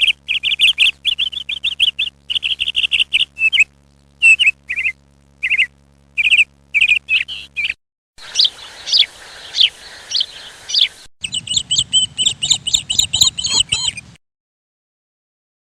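Small birds chirping in quick, high repeated notes, in three short stretches that cut abruptly from one to the next, then stopping about fourteen seconds in.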